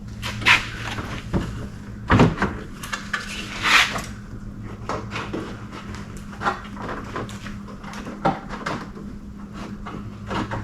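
Scattered clicks, knocks and rattles of hard plastic headlight-assembly parts being handled and fitted, the loudest knocks about half a second, two seconds and four seconds in, over a steady low hum.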